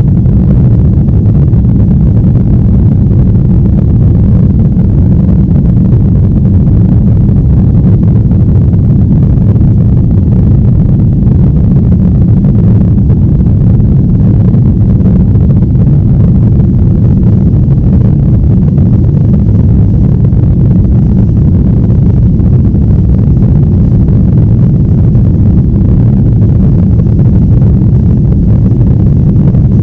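Steady low roar of an airliner's cabin noise in flight: engine and airflow drone that holds even throughout.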